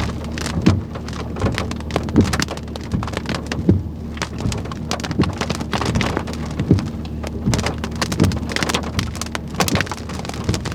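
Rain from a thunderstorm: heavy drops tapping irregularly on a hard surface, over a steady low hum.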